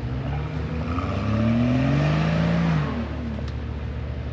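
A 4x4's engine running, revved up for about two seconds and then dropping back to idle.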